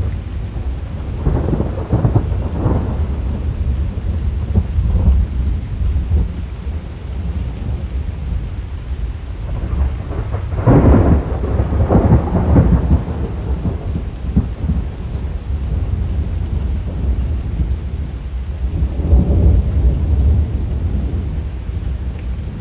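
Thunder rolling almost without a break, a deep rumble that swells into louder crackling peals about a second in, again around ten to thirteen seconds in, and near the end, over steady rain.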